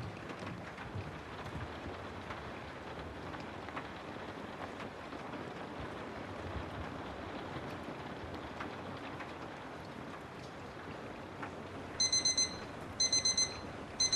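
Steady rain noise. About two seconds before the end, a digital timer alarm starts beeping in quick bursts of four high beeps, one burst a second, marking the end of a pomodoro study session.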